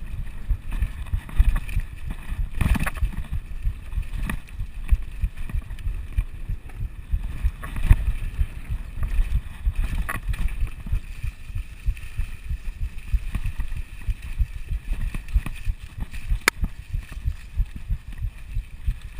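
Mountain bike descending a rough downhill trail, heard from a camera mounted on the rider or bike: a constant low rumble and rapid irregular thumps from tyres, suspension and frame over rocks and roots, with several sharp clacks.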